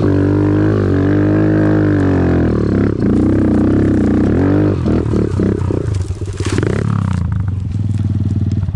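Off-road vehicle engine running under varying throttle, its pitch rising and falling. About five seconds in it turns choppy with short throttle blips and a brief noisy burst, then settles to a lower, even chugging near the end.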